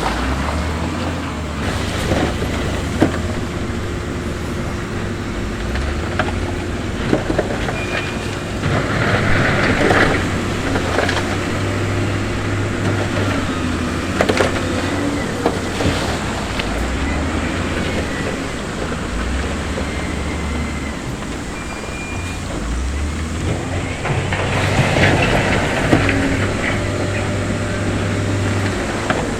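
Diesel engines of heavy earthmoving machinery running, with the engine note stepping up and down as the machines work. Sharp knocks and clatter of stone are scattered throughout, and there are two spells of hiss, about nine seconds in and again near the end.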